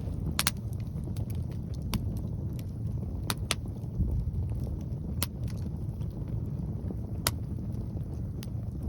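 Wood fire crackling, with sharp irregular pops every second or two and a quick double pop near the start, over a steady low rumble of wind on the microphone.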